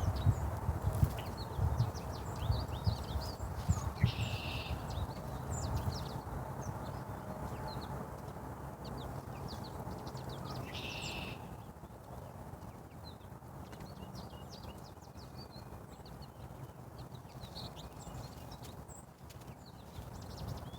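Small birds chirping, with many short high chirps and a few quick chirping bursts. A series of low knocks and thumps comes in the first four seconds.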